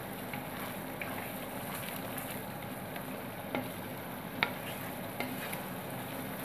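Onion and spice masala paste sizzling steadily as it fries in oil in a pan, stirred with a wooden spatula, with a few sharp clicks of the spatula against the pan in the second half. This is the frying stage that cooks off the raw smell of the ground spices.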